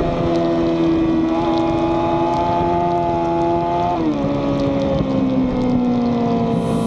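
Racing motorcycle engine heard onboard under wind noise, running at a steady pitch, then dropping sharply about four seconds in and slowly falling as the bike slows.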